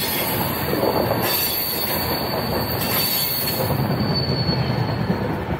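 Hampi Express passenger coaches rolling past at close range, with a steady rumble of wheels on rail. A thin, high wheel squeal runs over it and fades out near the end.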